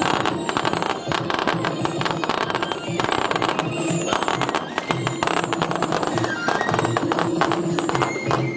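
Fireworks crackling and popping in rapid, dense bursts, with music playing steadily alongside.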